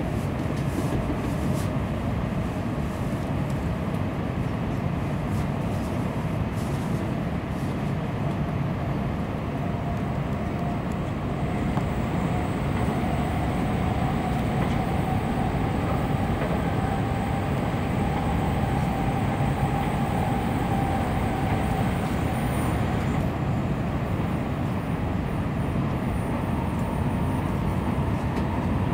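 Tokaido Shinkansen heard from inside a passenger car: the steady rumble of the train running on the rails, with a faint motor whine that rises slowly in pitch as the train gathers speed.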